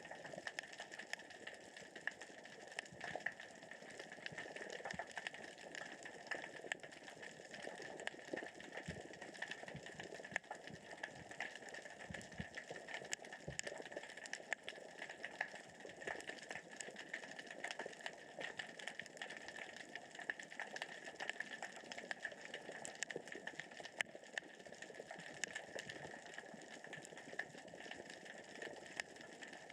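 Underwater crackle of small rocks rolling over the sea floor as the current and tide move them: a dense, steady stream of tiny clicks, with a few low knocks about halfway through.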